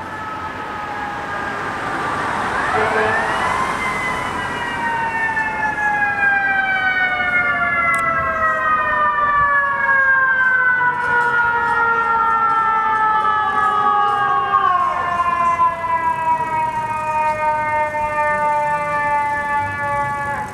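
Fire apparatus sirens on a response run. One siren is already winding slowly down in pitch; a second winds up about two and a half seconds in, then coasts down too, the long slow wind-down typical of a mechanical fire siren. The second one drops away about fifteen seconds in, while the first keeps falling.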